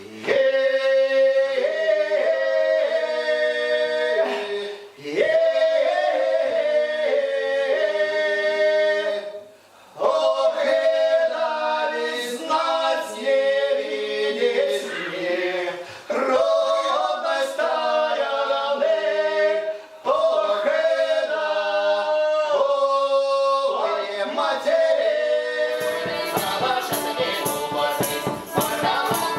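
Folk ensemble singing a cappella in several voices, old-style multi-voice harmony, in long phrases with short breaks for breath. Near the end a rattling percussion beat comes in, quick and steady, under the voices.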